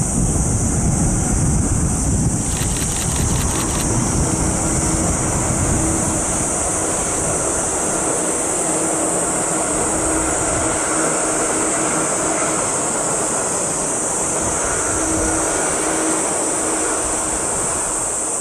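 A 185-series electric train running past over a viaduct: a steady rumble with a low hum, and a quick run of clicks about two and a half seconds in. Insects keep up a high, steady buzz throughout.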